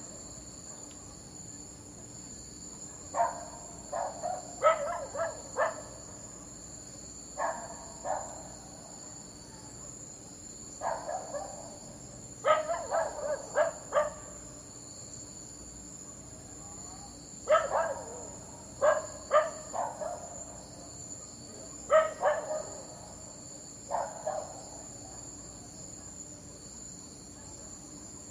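A dog barking in short clusters of two to five barks, with pauses of a few seconds between clusters, over a steady high-pitched background whine.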